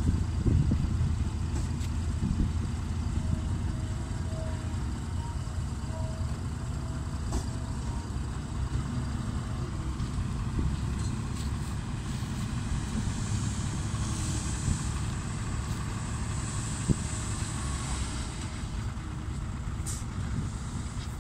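Six-wheel dump truck's diesel engine running steadily, louder in the first second, with faint short beeps a few seconds in.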